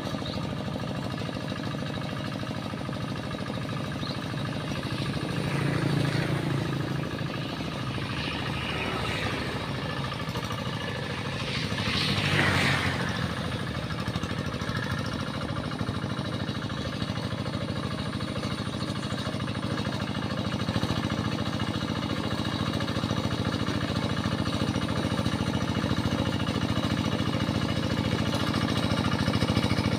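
Tractor engine running steadily while plowing a rice paddy, swelling louder briefly twice, about six and twelve seconds in.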